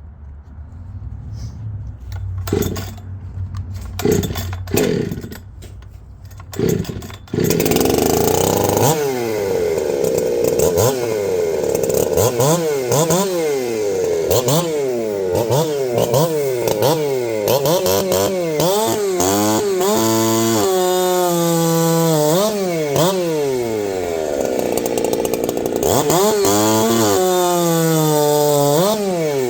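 A few separate knocks, then a two-stroke chainsaw engine starts about seven seconds in and runs loud. It is revved up and down over and over, and the throttle blips come faster later on.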